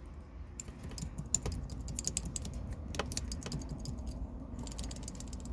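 Loose plastic wiring connector and its mounting clip rattling and clicking irregularly as they are wiggled by hand, with a few sharper knocks. The connector and fastener sit so loosely that they are the likely cause of the rattle and squeak from the boot.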